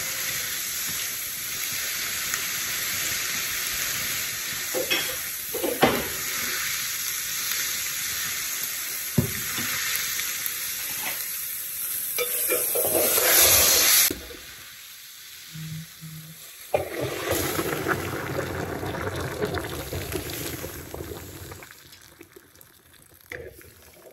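Food sizzling in a pot with a steady hiss, with a few sharp clinks of a utensil against the pot. The hiss swells near the middle, cuts off suddenly, then comes back more softly and fades.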